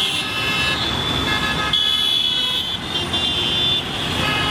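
Road traffic with several vehicle horns honking over and over, their steady high tones overlapping and starting and stopping, over the rumble of engines in jammed traffic.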